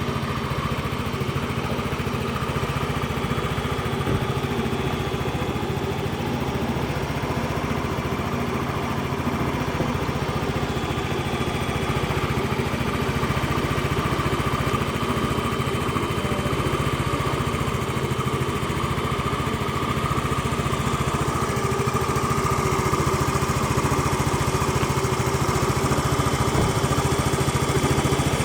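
Yamaha XC115 Delight scooter's 115 cc single-cylinder four-stroke engine idling steadily, growing slightly louder in the second half.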